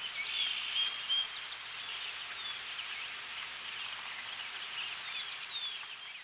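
Steady outdoor chorus of many small chirps from insects and birds, with a high, even buzz through the first second.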